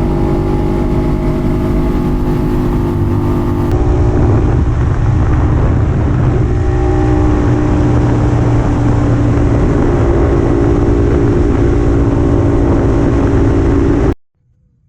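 Vintage Puch 250 TF split-single two-stroke motorcycle engine running at a steady pace while riding. The sound cuts off abruptly shortly before the end.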